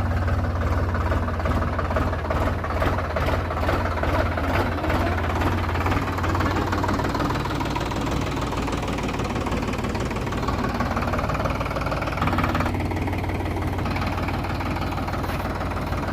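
Diesel tractor engine running steadily at low speed, with a regular knock. The tone dulls slightly near the end.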